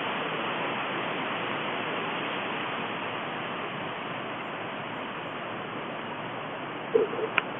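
Strong storm wind blowing through trees: a steady, even rushing noise. A short blip and a sharp click come near the end.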